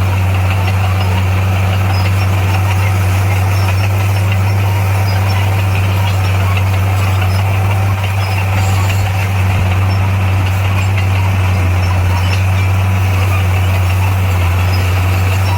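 Diesel engine of heavy earthmoving machinery running at a steady speed: a constant low drone.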